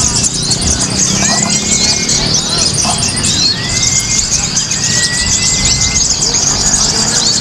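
Many kolibri ninja sunbirds singing at once: dense, rapid, high-pitched chirps and twitters overlapping, with a few longer slurred whistles lower down.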